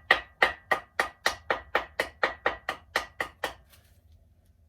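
Wooden mallet with rawhide ends tapping rapidly on the edge of a main bearing shell in a Ford 302's cast-iron block to work it loose: about a dozen quick, even blows, about four a second, with a faint ring, stopping about three and a half seconds in.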